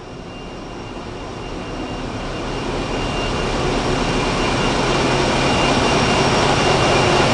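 Ferry engine-room machinery running: a steady, dense noise with a thin high whine on top. It grows louder over the first three seconds or so, then holds steady.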